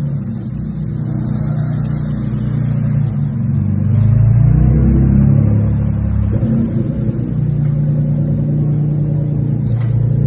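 Performance car engine and exhaust running and revving with a deep, steady drone, getting louder about four seconds in.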